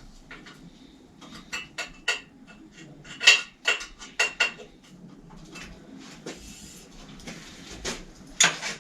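Metal tools clinking and clattering as they are handled on a workbench: a run of sharp metallic clinks from about a second and a half in to halfway through, then a louder clack near the end.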